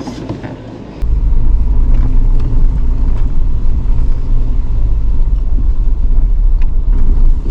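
Loud low rumble of a car on the move, starting suddenly about a second in and holding steady.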